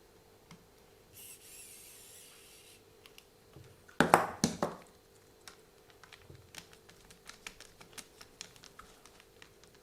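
Small plastic and metal RC car parts and hand tools being handled on a workbench during suspension reassembly: a short faint high whir about a second in, a few loud knocks about four seconds in, then a run of small sharp clicks.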